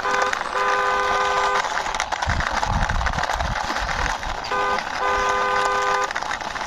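A horn honks a short beep then a longer one, and the same short-long pattern comes again about four and a half seconds in, over steady background noise.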